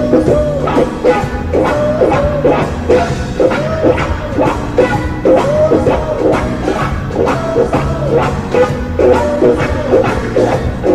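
Electric blues-rock guitar playing a lead line full of quick string bends, over bass and drums.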